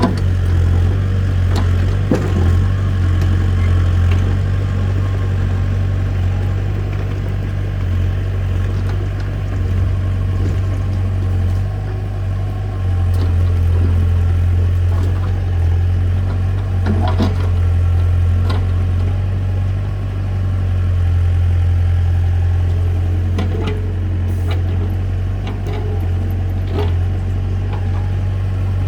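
A heavy machine's engine runs steadily at a low, even pitch, with a few short knocks now and then.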